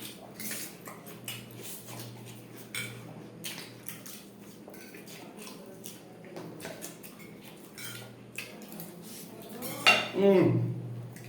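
Cutlery clinking and scraping against plates, with short irregular clicks as people eat quickly from plates of noodles and potato chops. A brief voice sound comes near the end.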